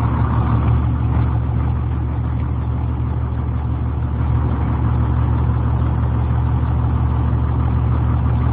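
Diesel engine of a 2003 Blue Bird short school bus, an International engine, idling steadily.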